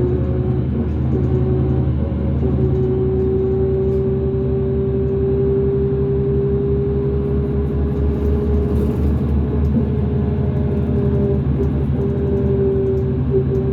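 2005 New Flyer D40LF transit bus underway: its Cummins ISL diesel runs with a low, pulsing drone under a strong whine that rises slowly in pitch as the bus gathers speed. The whine breaks up briefly near the end. It fits the weird axle noise this bus is known for.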